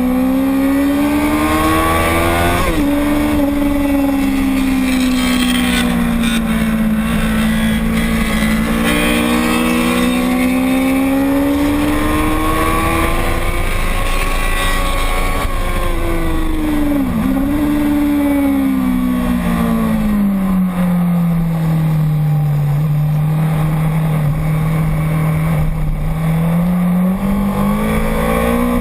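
Motorcycle engine running hard on a race track, its revs rising and falling slowly and steadily with the throttle, with two brief sharp dips in pitch about three seconds in and again near the middle. Wind rush sits under the engine the whole time.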